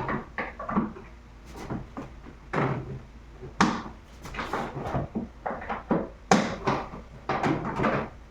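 Repeated knocks and clatter of the shop vacuum's hard plastic parts being handled and pressed into place.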